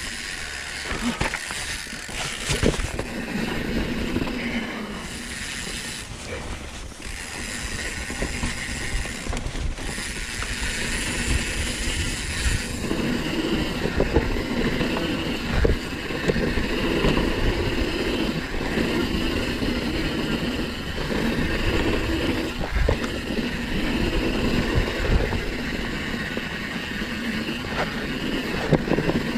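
Downhill mountain bike riding down a dirt trail: steady tyre and wind noise, picked up by a chest-mounted camera, with irregular knocks and rattles as the bike hits bumps and roots.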